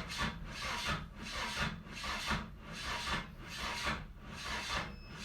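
Starter slowly cranking the Nissan KA24E four-cylinder engine, about three even strokes every two seconds, without it catching. The slow cranking is a sign of a battery too weak to spin the engine properly.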